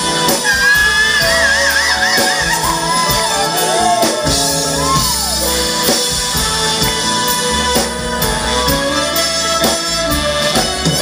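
Live soul band playing a slow ballad between sung lines. Drums and bass play under a lead melody that wavers with vibrato in the first few seconds.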